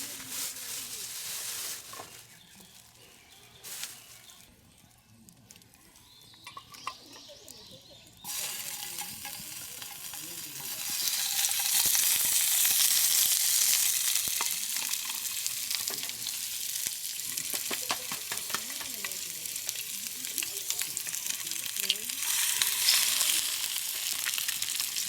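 Chicken deep-frying in hot oil over a campfire: a dense sizzling hiss that starts suddenly about a third of the way in, is loudest a few seconds later, then settles to a steady sizzle.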